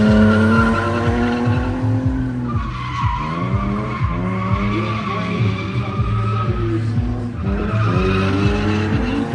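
Drift car's engine revving hard with tyres squealing as it slides; the revs dip and climb back up twice, about three seconds in and again near the end.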